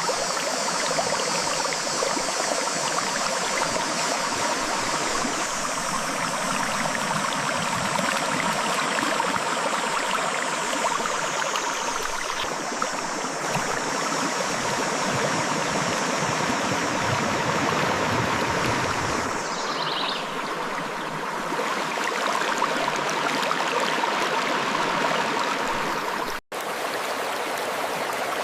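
Clear river water flowing over and between rocks: a steady, even rushing and splashing. It cuts out completely for an instant near the end.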